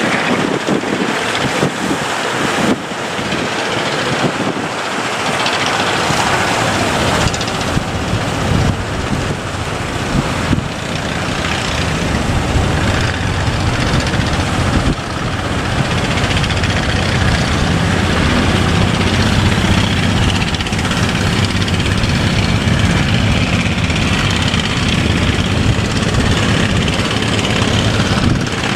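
A fishing boat's engine running over wind and surf noise. The engine becomes steadier and more prominent about halfway through.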